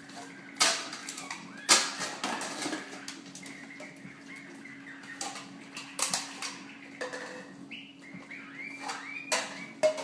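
A parrot making short chirping calls amid several sharp knocks and clatters, the loudest a little under two seconds in.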